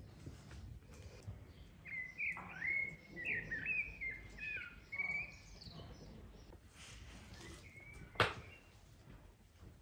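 A songbird singing a short run of whistled, sliding notes for about three seconds. Then comes a single sharp knock near the end.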